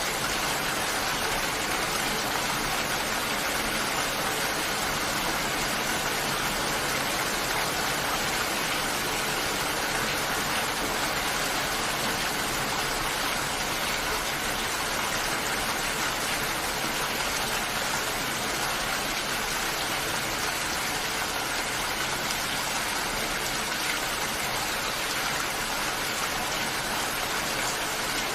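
Steady rain, an even hiss of falling water at a constant level.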